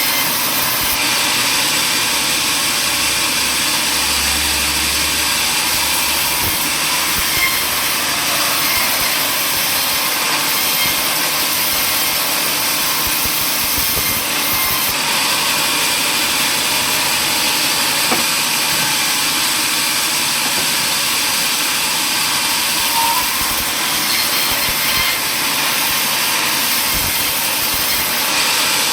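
Sawmill power saw running steadily, a loud continuous machine noise with the hiss of the blade cutting wood.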